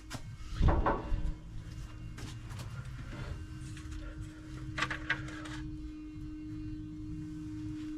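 Clicks and knocks of hands removing and handling an HEI distributor cap, with one loud knock about a second in and a few lighter clicks later, over a steady hum.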